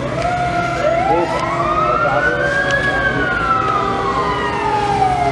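Fire truck siren wailing: it rises over about two seconds, falls slowly for nearly three, and starts rising again near the end, over a steady low engine hum.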